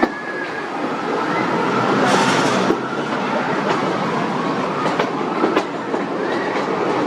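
Vintage amusement-park train running along its track, heard from aboard: a steady rumbling clatter from the wheels and carriages, with occasional sharp clicks as the wheels cross rail joints and a short hiss about two seconds in.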